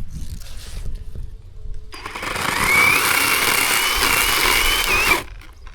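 Zhipu 48V cordless electric chainsaw running for about three seconds from about two seconds in, its motor whine rising as it spins up and then holding steady before cutting off suddenly.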